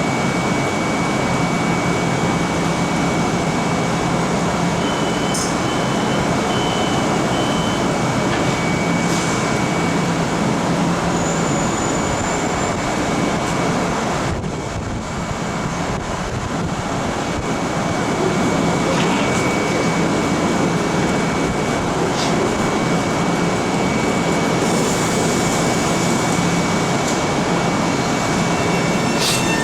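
LIRR M-7 electric multiple-unit train at the platform: steady, loud running noise with a thin high whine, and a short run of four beeps about five to eight seconds in.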